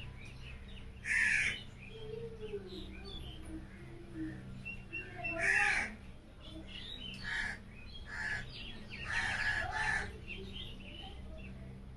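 Bird calls repeating at irregular intervals, the loudest about a second in, around the middle and again near the end, over a steady low hum.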